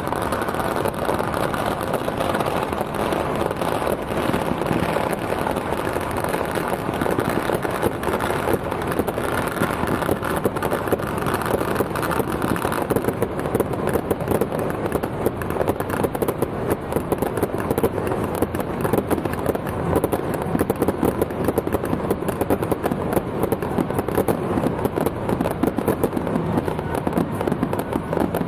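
Strings of firecrackers going off in a rapid, continuous crackle, growing denser about halfway through.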